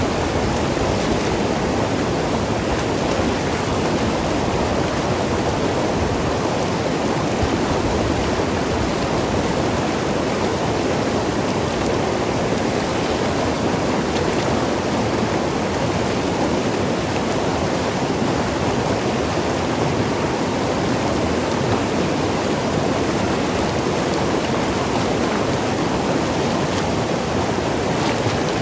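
Mountain river rushing and gurgling over rocks: a steady, even water noise with no breaks.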